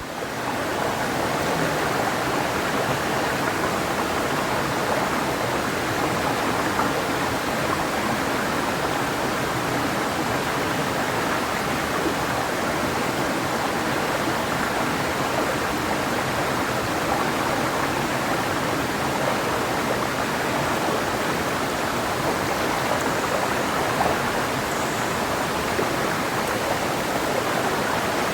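Clear mountain river flowing over rocks: a steady, even rush of water that fades in at the start.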